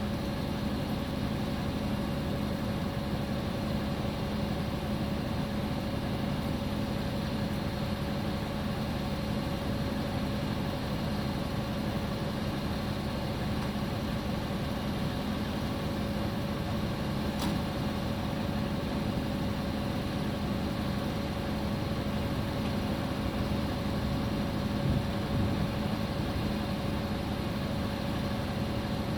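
A truck's engine running steadily at an even, unchanging hum.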